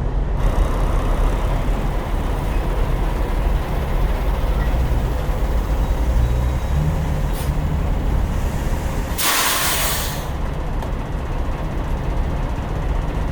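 Semi truck's diesel engine running steadily with a low rumble, with a short air hiss about seven seconds in and a loud air-brake hiss lasting about a second a little later.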